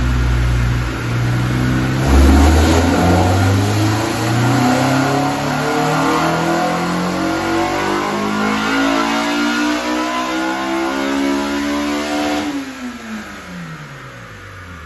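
Twin-turbo Toyota Soarer's engine pulling hard under acceleration, its pitch climbing steadily for about ten seconds. Near the end the revs fall away as the throttle is released.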